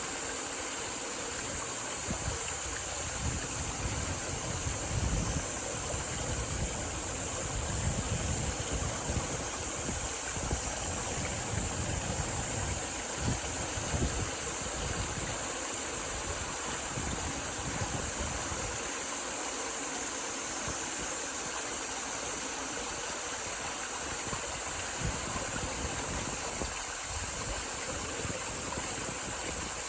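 Wind blowing through rice fields, a steady rushing rustle with low gusts buffeting the microphone that come and go. A steady high hiss runs underneath.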